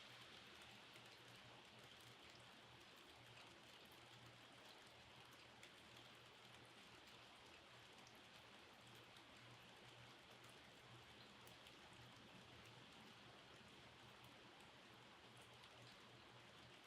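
Faint steady rain: an even hiss with many scattered drops ticking, over a faint low hum.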